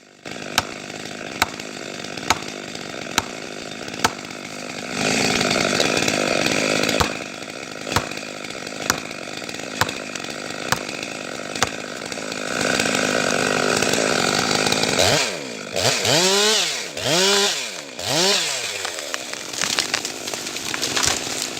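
Chainsaw running and cutting, with louder stretches under load, then revved up and down several times in a row near the end. Sharp ticks recur about once a second through the first half.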